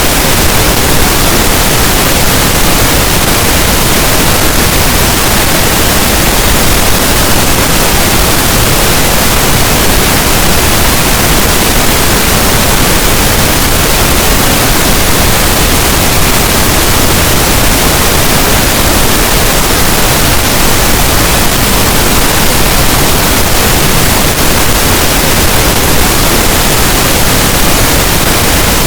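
Pink noise: a steady, even, loud hiss with no changes, generated as a sleep sound.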